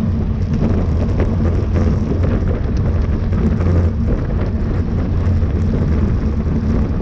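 Steady wind buffeting on the microphone, a loud low rumble, while riding a bicycle at race speed.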